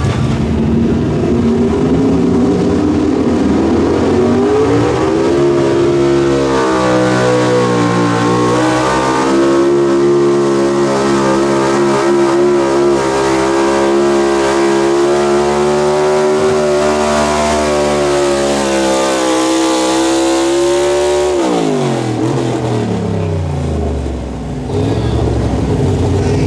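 The engine of a competition pulling truck or tractor making a pull: the revs climb over a couple of seconds, hold high and steady for about fifteen seconds, then fall away sharply about five seconds before the end.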